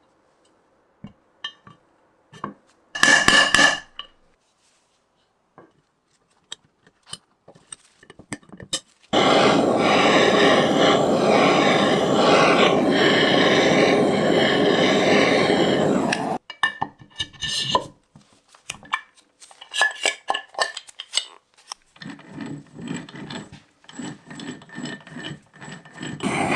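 Workshop tool sounds: scattered clicks and knocks, a short loud scrape about three seconds in, and a steady loud rasping noise for about seven seconds in the middle, followed by more clicking and a rougher uneven scraping near the end.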